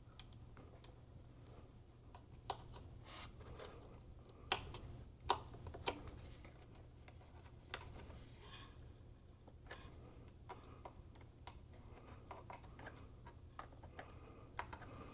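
Faint, scattered small clicks and light handling noises from work on an open iMac's internals, such as cable connectors and small parts being handled, over a low steady hum.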